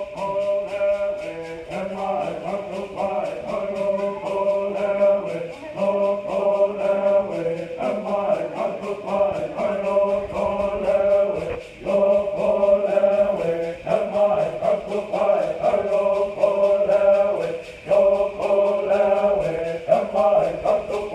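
A chorus of voices singing a chant-like song in phrases of about two seconds, over a steady fast ticking beat.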